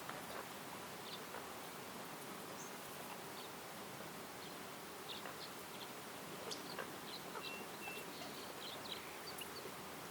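Woodland ambience: a steady, even hiss with scattered short, high bird chirps and calls, most of them in the second half.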